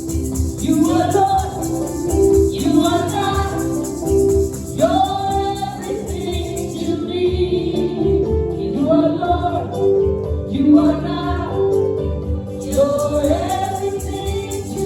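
Gospel song: singing in short phrases, repeating every couple of seconds, over a steady instrumental backing with a rhythmic beat.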